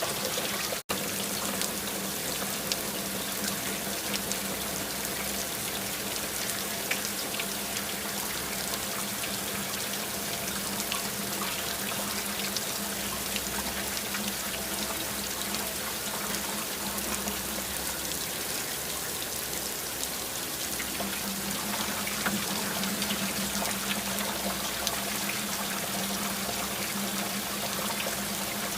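Steady rain falling, with many small drop hits pattering through it. The sound cuts out for an instant about a second in.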